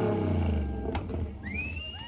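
Car engine coming off a hard rev, its pitch falling away toward idle. About a second and a half in, a shrill rising whoop from a spectator.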